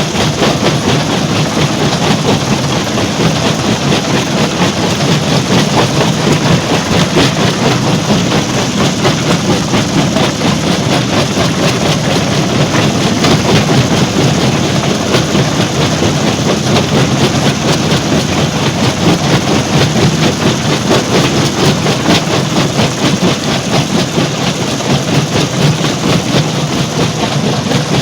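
Stone crusher plant machinery running steadily: a loud, continuous rattle and clatter of rock being crushed over a heavy engine drone.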